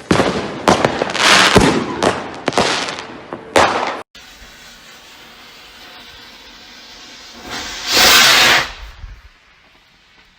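Salute rockets (El Gato Volador de Trueno, F2) going off: a run of loud, sharp reports and rushing sounds in the first four seconds. After an abrupt cut, a rocket whooshes up on launch for about a second, roughly three-quarters of the way through.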